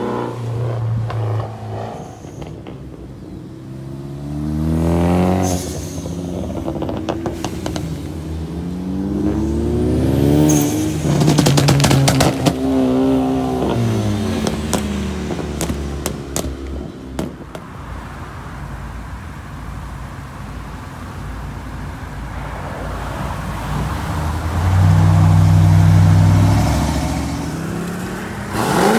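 Several cars driving past one after another, their engines revving and rising in pitch as they accelerate. The loudest passes come about ten to thirteen seconds in and again near the end.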